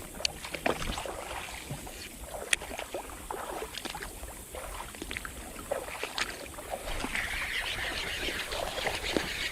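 Running creek water with irregular small clicks, knocks and splashes; from about seven seconds in the rush of moving water grows louder.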